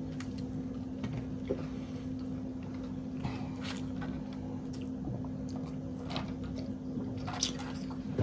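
Close-miked chewing and wet mouth sounds of people eating buttered toast and scrambled eggs, with scattered small clicks and smacks over a steady low hum.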